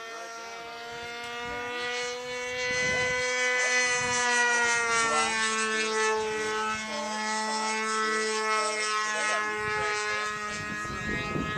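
Model airplane's motor and propeller whining steadily in flight, its pitch drifting slightly up and down as the throttle and distance change.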